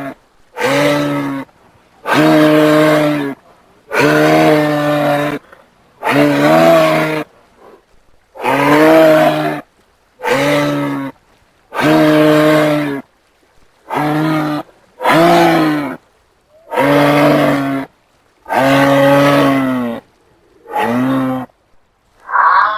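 Giraffe calling: about a dozen low, pitched calls, each a second or so long, separated by short silent gaps and starting and stopping abruptly as if cut one after another.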